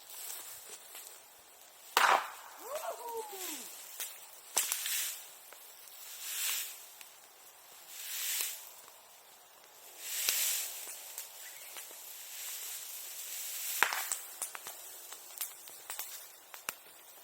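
A bonfire of old sericulture tools crackling, with a few sharp loud pops and several hissing surges lasting about a second each. A short falling whistle follows the first loud pop.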